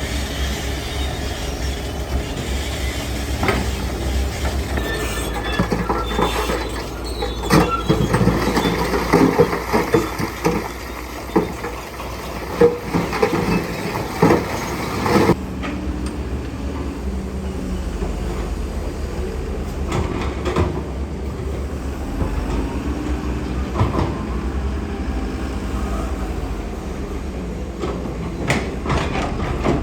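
Heavy construction machinery at work: a diesel engine's steady low rumble, with a run of sharp knocks and clanks from about 6 to 15 s. The sound changes abruptly near the middle, then settles back to the steady engine rumble.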